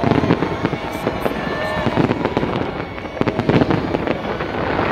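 Fireworks display going off, a dense run of overlapping bangs and crackles one after another.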